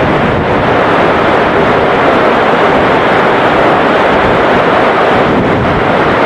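A steady, loud roar of heavy rain and strong wind buffeting the microphone, with jet airliner engine noise blended in.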